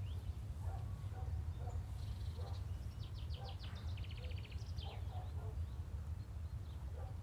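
Outdoor ambience of birds calling: scattered short calls, with two rapid trills about three to four seconds in, over a steady low rumble.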